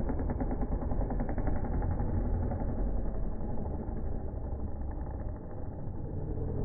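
Motocross bike engines running hard, with a fast buzzing firing pulse in the first couple of seconds.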